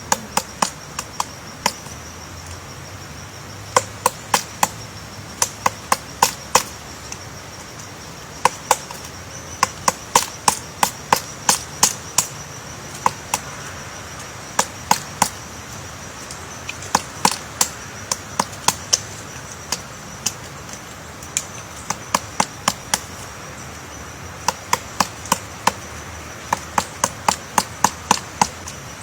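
Sharp knocks on wood, a few a second in irregular runs separated by short pauses, over a steady high-pitched whine.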